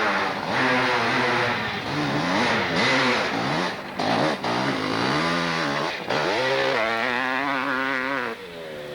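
Hill-climb motorcycle engine revving hard, its pitch rising and falling again and again as the throttle is opened and shut, with brief dips. It drops away sharply near the end.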